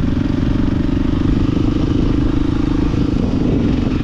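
Dirt bike engine running loud and steady close by, its firing pulses rapid and even; it stops abruptly right at the end.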